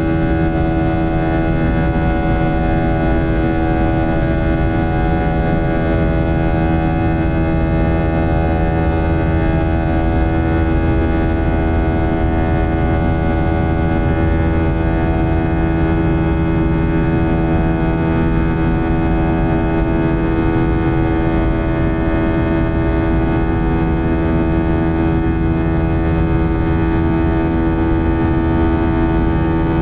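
IAE V2500 turbofan engines of an Airbus A321-231 running at high thrust, heard inside the cabin: a steady multi-tone buzzsaw drone over a low rumble.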